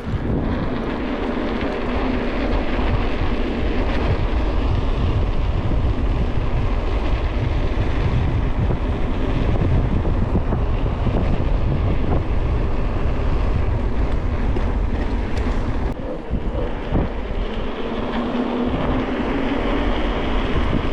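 Wind rushing over the microphone during a fast downhill bicycle ride, a loud, steady rumble with a brief lull about two-thirds of the way through.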